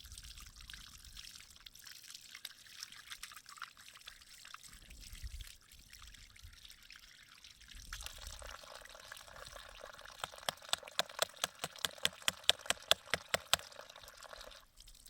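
Water trickling and pouring, then a quick run of sharp wet strokes, about five a second, for roughly three seconds near the end.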